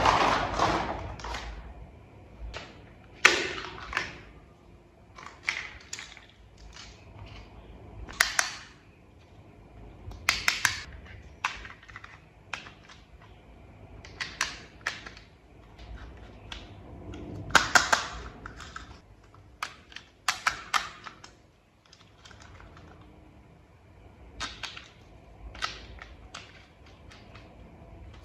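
Irregular clicks and taps of small toy vehicle parts being handled and fitted together, some coming in quick clusters, with a louder clatter fading right at the start.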